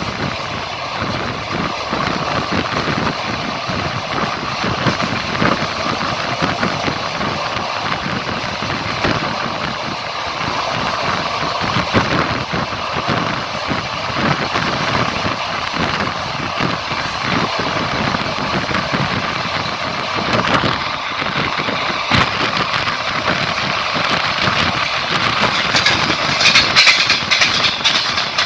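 A moving train running along the line: steady rolling rumble with irregular clatter and knocks of the wheels on the rails. Near the end a louder hiss joins in for a couple of seconds.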